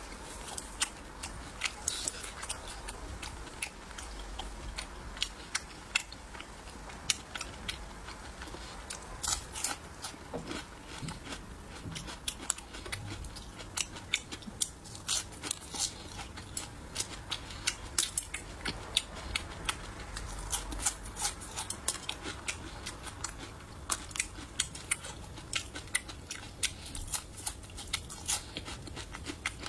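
Close-miked eating sounds: irregular crisp crunches and wet chewing as whole fried small river fish are bitten and chewed, the crunches coming thick and fast throughout.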